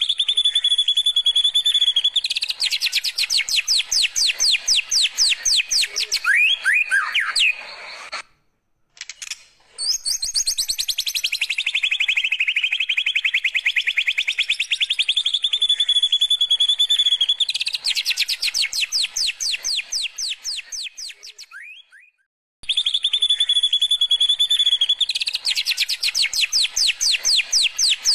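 White-rumped shama singing canary-style song: a held high whistle that breaks into long runs of rapid repeated sweeping notes, about ten a second. The song stops briefly twice, and after the second break the same sequence starts over.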